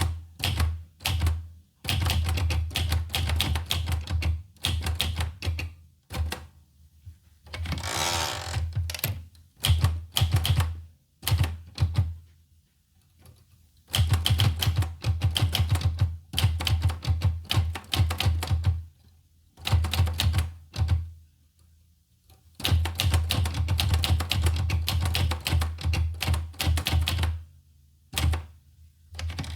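Olivetti Lettera 25 manual portable typewriter being typed on: runs of rapid key strikes broken by short pauses, with a brief rasping sound about eight seconds in.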